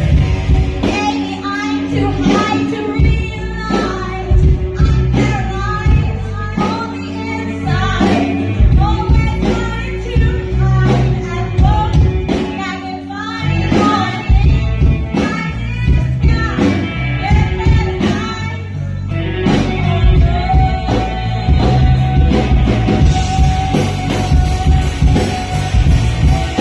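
Live rock band playing loud with a singer; about three-quarters of the way through the vocal lines stop and a long held note rings over the drums and cymbals.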